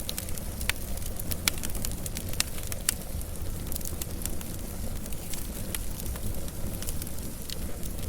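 Wood fire burning with a steady low rumble and irregular sharp crackles and pops, thicker in the first few seconds.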